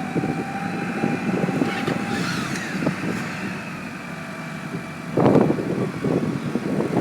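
A vehicle's engine running close by, swelling loudest about five seconds in, while a steady siren tone trails off in the first two seconds.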